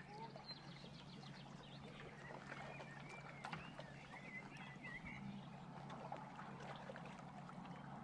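Faint outdoor ambience: a few quiet bird chirps, mostly in the middle stretch, over a low steady hum, with scattered small clicks.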